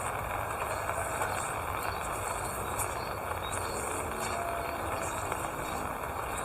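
Steady rain falling, with an insect chirping high overhead in short pulses about once a second.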